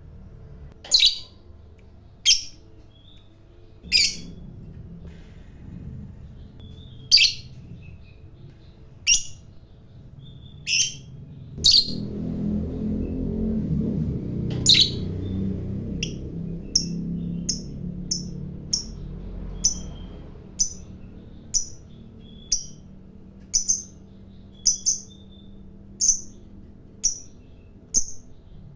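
A lovebird giving short, sharp, high chirps, spaced a second or more apart at first and then coming in a quicker, regular series of about one every half second from about halfway through. A low rumble sits under the calls for several seconds in the middle.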